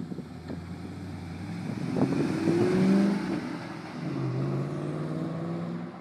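Ford Mustang GT's V8 accelerating hard as the car pulls away. The engine note climbs to its loudest about three seconds in, then drops and climbs again as it shifts into the next gear, fading with distance.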